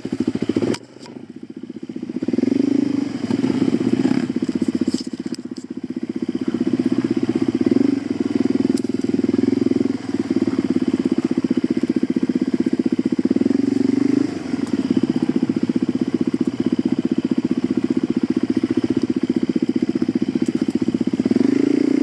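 Suzuki DR-Z400 dirt bike's single-cylinder four-stroke engine riding under throttle, the engine note rising and falling. It drops away sharply about a second in, then picks back up and holds mostly steady, with a few brief lifts off the throttle.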